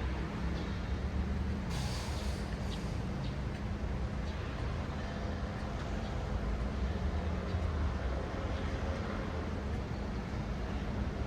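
City road traffic: a steady low rumble of passing cars and heavier vehicles, with a short sharp hiss about two seconds in and a fainter one just after.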